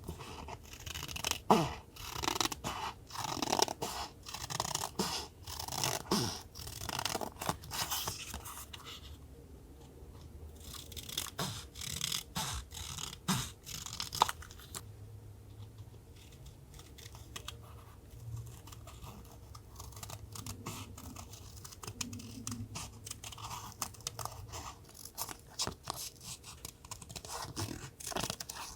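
Paper being handled for collage journaling: quick rustles, crinkles and light taps of paper stickers and memo sheets. They come thick and fast in the first third and grow sparser after that.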